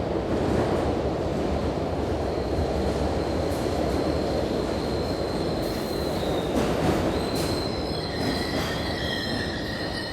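London Underground train running with a heavy, steady rumble. A thin, high wheel squeal joins about a third of the way in, and more squealing tones build up over the last couple of seconds.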